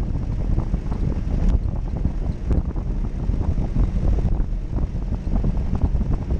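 Jeep Cherokee engine running as the vehicle drives off-road, a steady low rumble with small irregular knocks, under wind buffeting the microphone.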